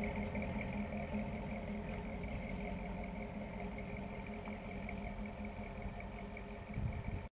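A 1932 Ford Highboy roadster's 350 small-block Chevy V8 running as the car drives away, its steady hum slowly fading.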